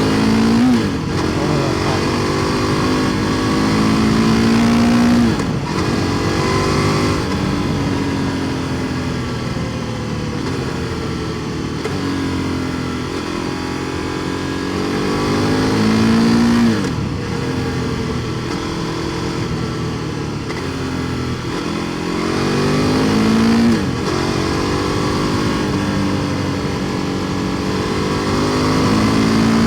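KTM 1290 Super Duke R Evo's V-twin engine through an Akrapovic exhaust, ridden under hard acceleration. The engine note climbs and then drops sharply at each gear change, several times, easing off in between.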